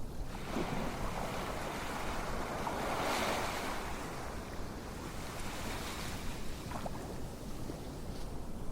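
Steady rushing noise like surf, swelling about three seconds in, with a few faint clicks.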